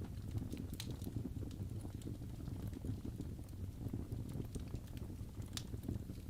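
Crackling fireplace: a steady low rumble of flames with irregular sharp pops and snaps scattered through it.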